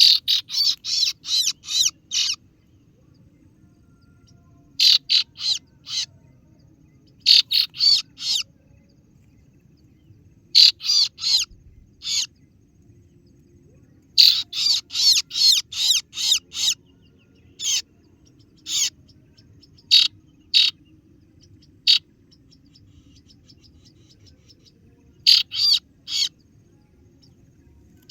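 Kaso-kaso (singo barong) bird call used as a lure: rapid, sharp 'ciet ciet' chirps in bursts of about three to seven notes, with pauses of a second or more between bursts. A faint steady low hum runs underneath.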